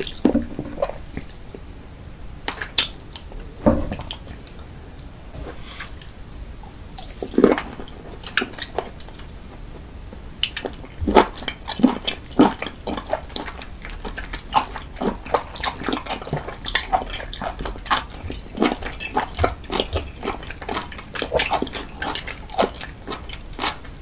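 Wet chewing and lip smacking on cooked octopus tentacle: an irregular stream of short, sticky mouth clicks and squelches, several a second, with a few louder snaps.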